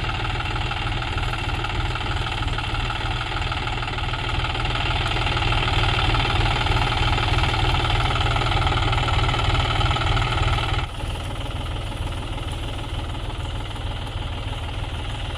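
John Deere tractor's diesel engine running steadily under load. It grows louder a few seconds in, then drops suddenly about eleven seconds in.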